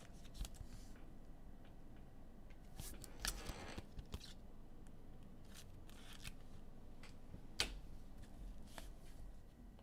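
Trading cards being handled and flipped through: light clicks and brief slides of card stock, the sharpest tick near the end.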